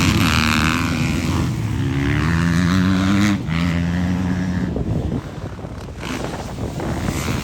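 Motocross bike engines revving hard during a race, the engine note climbing in pitch and then dropping abruptly a little over three seconds in, as on a gear change or throttle cut, then running rougher and less steady.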